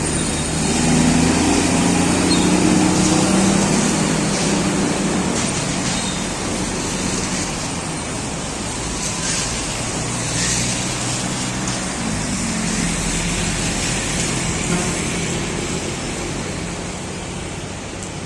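Bus engine running with road and traffic noise, loudest in the first few seconds and then slowly fading as the bus moves away.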